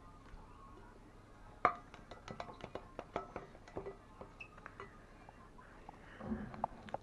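Handling of small hard plastic toy figurines and slime: a quick run of light clicks and clinks, the loudest about a second and a half in, then a short soft rustle near the end.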